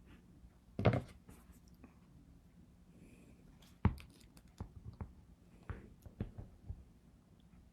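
Small metal pieces being handled and set down on a work surface: a knock about a second in, a sharp click a few seconds later, then a run of light clicks and taps.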